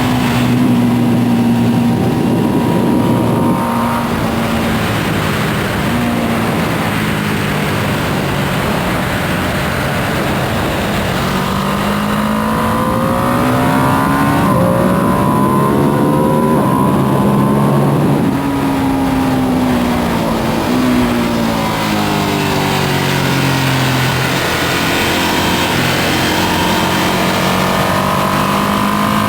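Ducati Panigale V2S's V-twin engine at full track pace, its pitch climbing under hard acceleration and dropping back on shifts and braking, several times over.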